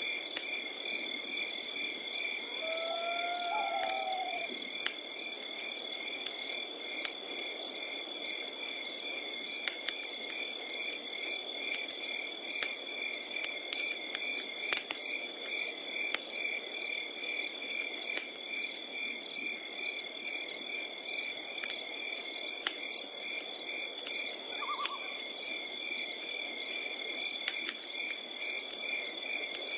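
Wood campfire crackling with scattered sharp pops, under a steady high insect trill and crickets chirping in an even pulse. A short sliding animal call comes about three seconds in, and another brief call near the end.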